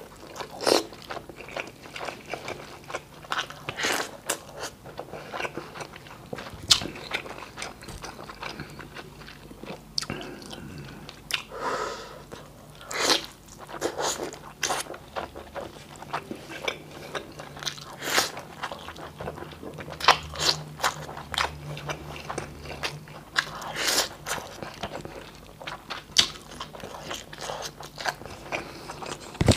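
Close-miked chewing and lip smacking of boiled beef and rice, with irregular sharp wet smacks.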